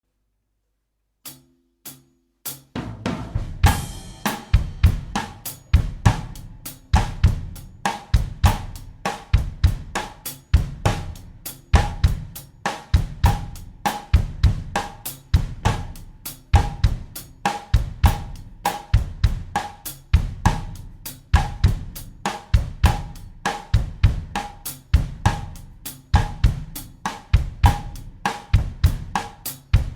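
Acoustic drum kit playing a steady bossa nova groove at 100 beats per minute, with bass drum, snare, hi-hat and cymbal. It opens with two short taps, then the beat starts about two and a half seconds in, with a cymbal ringing out soon after.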